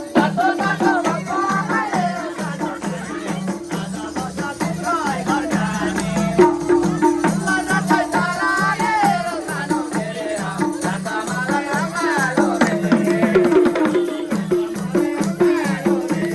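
Live Nepali dohori folk music: a steady, evenly repeating low beat under a wavering melody line.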